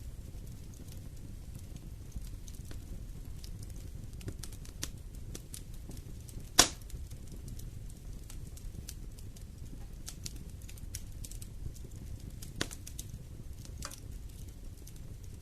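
Wood fire crackling in a fireplace: scattered small snaps and pops over a low steady rumble of burning, with one loud sharp pop about halfway through and another, smaller one near the end.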